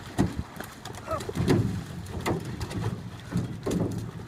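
Water splashing and slapping around a paddled canoe: several heavy slaps and splashes roughly a second apart. A brief voice is heard about a second in.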